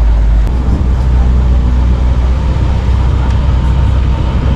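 Steady low rumble of a moving vehicle, engine and road noise, heard from on board.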